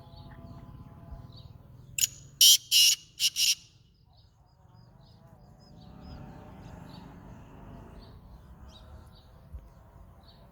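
Black francolin calling: a loud string of five short notes, about two seconds in, over in a second and a half. Faint chirps of smaller birds come and go around it.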